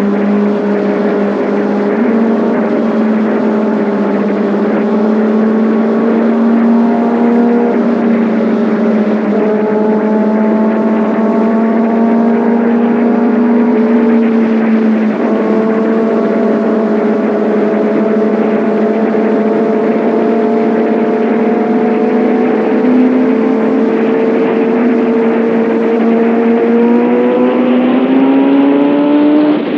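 Kawasaki Ninja ZX6R inline-four engine and exhaust running steadily under way at cruising revs, the pitch creeping gradually higher, with a brief change about halfway through and a climb in revs near the end.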